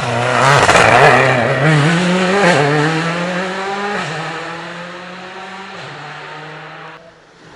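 A rally car passing at speed, its engine revving hard and changing up through the gears several times, loudest about a second in and then fading as it drives away. The sound drops off suddenly near the end.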